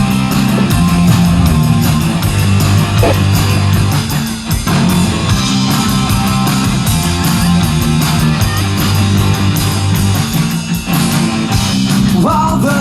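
Loud rock music without vocals: electric guitar, bass and drums playing a steady beat.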